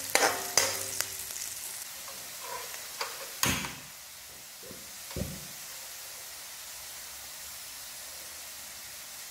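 Onion and garlic sizzling in margarine in a metal wok, with a metal spatula scraping and clicking against the pan in the first second or so. Two dull thumps come about three and a half and five seconds in, then a steady sizzle runs on.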